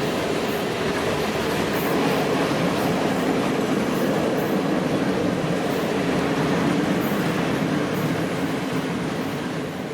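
A train running past on the track: a steady rumble of wheels on rails, which starts to fade away near the end.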